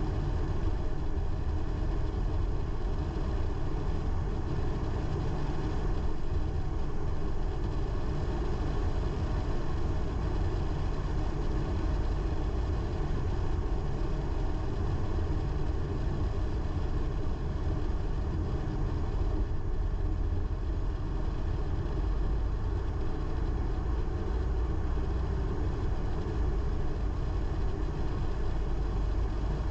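A car driving along a road: a steady low rumble of engine and tyre noise that holds even throughout.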